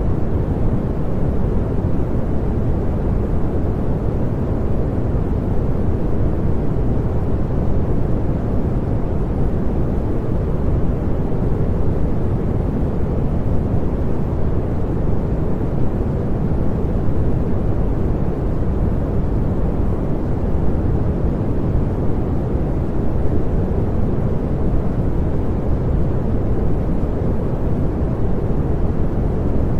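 Continuous pink noise: a steady, even rushing sound, weighted toward the low end with little hiss at the top, unchanging throughout.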